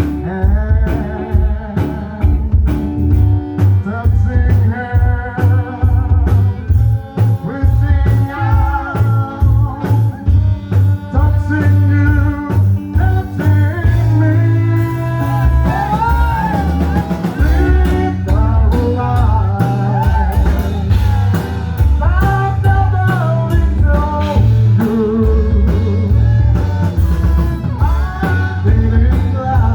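Live rock band song: a singer over electric guitar, drum kit and a heavy, pulsing bass.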